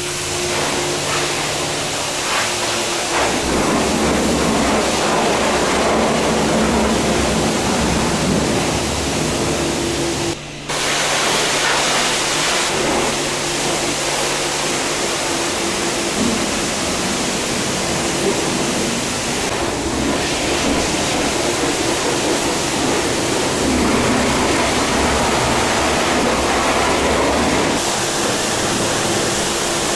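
Car-wash spray wand rinsing an engine bay: a steady hiss of water spray over a steady machine hum from the wash pump. The spray breaks off briefly about ten seconds in, then carries on.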